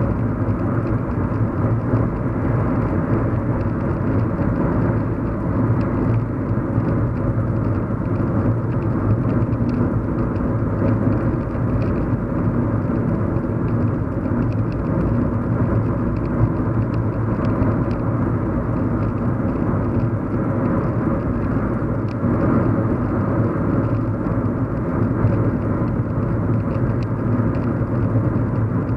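Steady low hum of a car driving, heard inside the cabin: engine and road rumble without a break or change.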